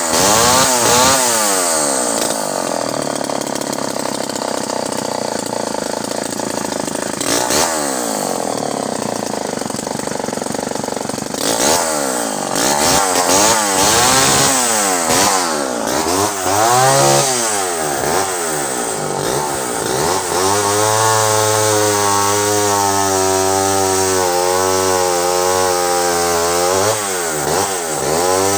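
Pioneer 1200 vintage 58cc two-stroke chainsaw being revved up and down over and over. About two-thirds of the way in it settles at steady high revs while cutting into an 8-inch larch log, dipping briefly near the end.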